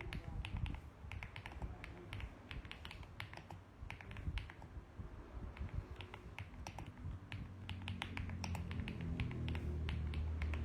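Typing on a mechanical keyboard: quick runs of sharp key clicks broken by short pauses. A low rumble runs underneath, stronger near the end.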